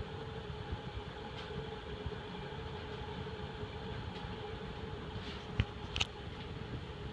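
TAT industrial ceiling fan with heavy steel blades running at medium-high on a transformer-based speed control, still coming up to speed: a steady motor hum over a rough low rumble. Two sharp clicks come about five and a half and six seconds in.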